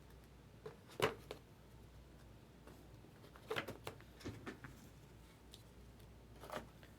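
2024 Topps Heritage baseball cards being handled and flipped through: a few short soft rustles and taps. The loudest is about a second in, a cluster follows around the middle, and one more comes near the end.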